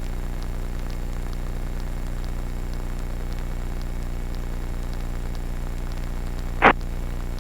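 Robinson R44 helicopter cabin noise, a steady low drone of the main rotor and idling engine during a practice autorotation descent. A single short, loud burst of noise comes near the end.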